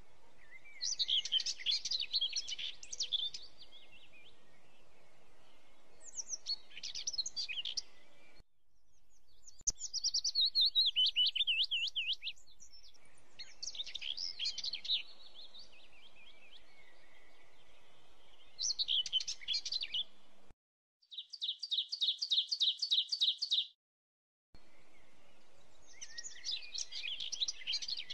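Small songbird singing: short twittering phrases of high chirps every few seconds, including one even, rapid trill, over a faint steady background hiss. The sound cuts out abruptly to silence a few times between phrases.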